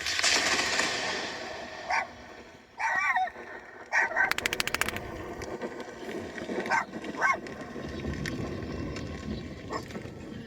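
Close lightning strike: a loud burst of noise at the start, then a quick rattle of sharp cracks about four seconds in. A dog barks in alarm several times.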